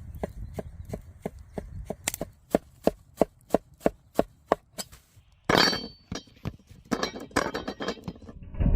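Knife chopping food on a wooden board in an even rhythm of about three strokes a second, broken in the second half by two short bursts of noise.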